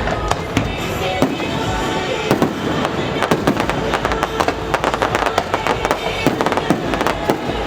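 Aerial fireworks bursting in quick succession, a continuous run of sharp bangs and crackles, with music playing underneath.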